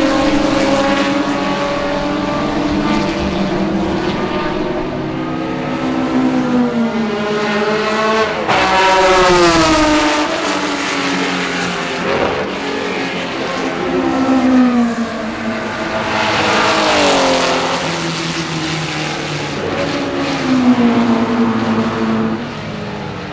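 Classic Ferrari 250-series V12 race cars at racing speed, engines revving hard with the pitch repeatedly climbing and then sweeping down as the cars pass and change gear.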